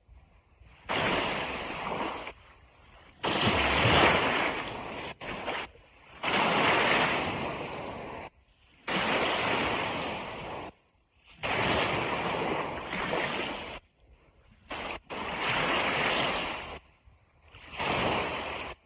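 Ocean surf washing on a beach in repeated surges, one every two to three seconds, each hissing for a second or two and then cutting out abruptly into a short near-silent gap.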